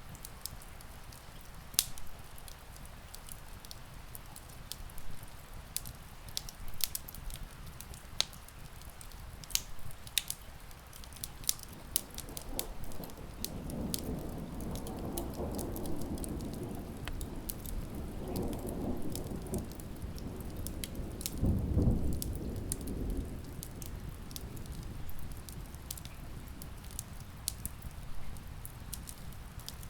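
Wood fire crackling with scattered sharp pops over steady rain. Distant thunder rolls in about twelve seconds in, swells to its loudest around twenty-two seconds, then fades.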